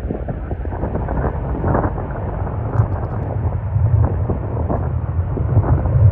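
Low rumble of a jet airliner's engines growing steadily louder as the aircraft approaches, with gusty wind buffeting the microphone.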